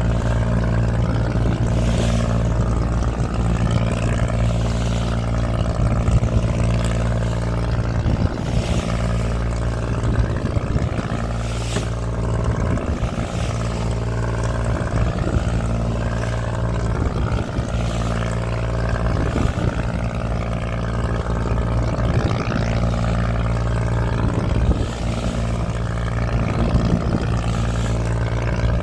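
A boat engine running steadily at constant speed, with a rushing noise and occasional brief gusts over it.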